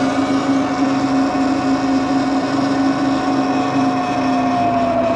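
Electric bike motor whining steadily at cruising speed, two steady tones over a rush of wind and tyre noise.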